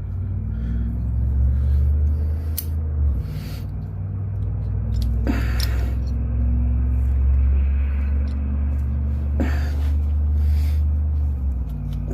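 A steady low droning hum that shifts level about three seconds in and again near the end, with a few sharp clicks and taps of small parts being handled.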